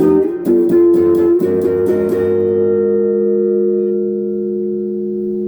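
Electric guitar played through a Golden Plexi overdrive pedal into a Crate GX15R amp: a couple of chords strummed, then one left ringing and slowly fading. The guitar's tone knob is rolled well down, giving a dark tone with little treble.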